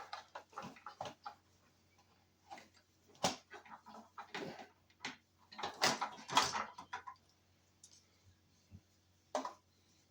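Irregular clicks, taps and rattles of small plastic and metal parts being handled while a wiring connector is tried on a pickup's instrument-cluster parts. The sounds come in clusters, the busiest about three and six seconds in, with one last click near the end.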